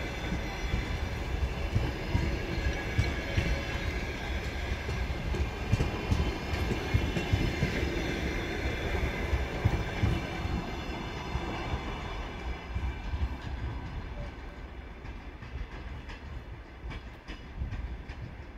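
Passenger coaches of a departing train rolling past over the rails: wheel rumble and clatter with thin high squealing tones over it. The noise fades over the last several seconds as the train pulls away.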